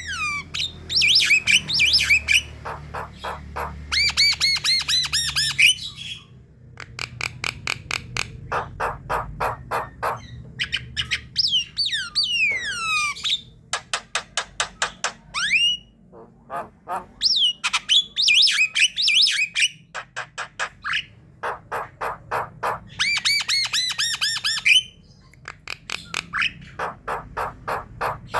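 A flock of Javan mynas calling: runs of rapid harsh clicks and rattles mixed with squawks and whistled notes that glide up and down.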